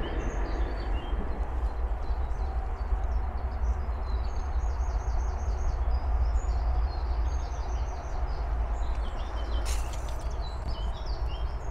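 Small birds chirping in short repeated high notes over a steady low rumble, with one brief sharp noise about ten seconds in.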